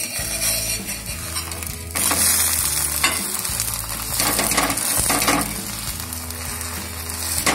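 Semolina cheela sizzling in oil on a hot tawa as a metal spatula presses and scrapes it. The sizzle gets louder about two seconds in and swells again in the middle and near the end.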